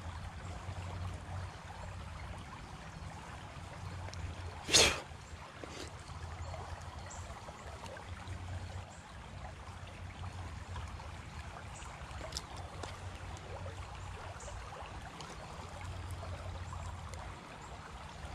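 Creek water running steadily in a low, even wash. A single brief sharp noise, the loudest moment, comes about five seconds in.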